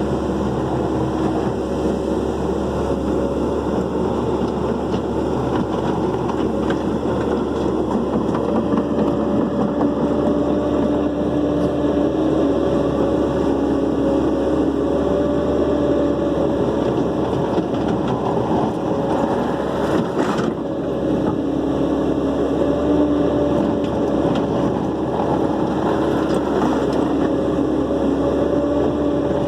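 Dump truck engine running steadily at a constant speed, its pitch drifting only slightly. There is a brief sharp knock about twenty seconds in.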